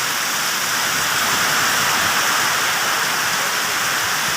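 Heavy monsoon rain falling, a steady even hiss.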